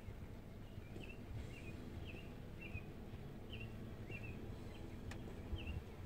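A songbird whistling a short chirp over and over, nearly two a second, heard from inside a car during light rain, over a low rumble. A single sharp tick sounds about five seconds in.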